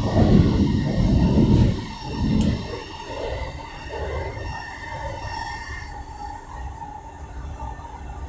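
Commuter train running on the line, heard from inside the carriage: a loud low rumble for the first two seconds drops to a quieter steady rumble with a faint high whine.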